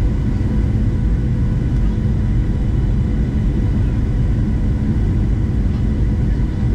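Steady cabin noise of a Boeing 737-700 in motion: a loud, even, deep rumble of engines and airflow with a faint constant hum above it.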